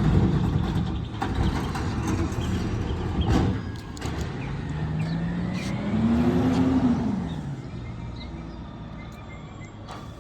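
Garbage truck engine running, with several sharp knocks and clanks in the first few seconds; about halfway through the engine note rises in pitch, then falls away.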